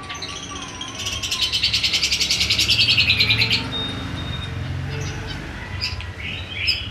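Cucak jenggot (grey-cheeked bulbul) singing a long run of rapid, rasping, saw-like notes that grows louder and stops abruptly about three and a half seconds in, the 'gergajian' phrase this bird is trained to sing. Sharp chirps follow near the end.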